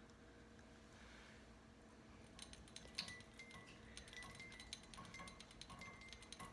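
Faint jingling and clinking of a small bell on a parakeet's cage toy. It starts about two seconds in, in quick irregular shakes with short ringing notes.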